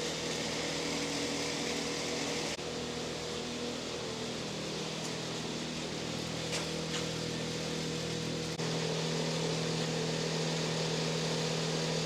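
Steady mechanical hum with a low held tone, shifting slightly about two and a half seconds in and again near the end.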